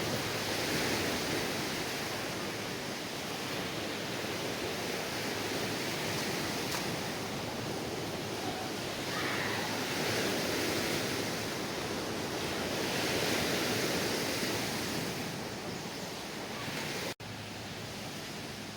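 Lake waves washing onto a rocky shore in a strong wind, the wash swelling and easing every few seconds. Near the end it cuts off abruptly and a quieter, steady outdoor hiss follows.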